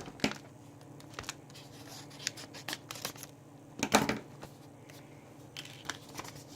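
Paper and card handled by hand: intermittent rustling and light papery clicks, with a louder rustle about four seconds in.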